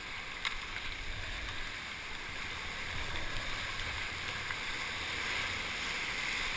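River rapids rushing steadily around a paddled raft, with one sharp click about half a second in.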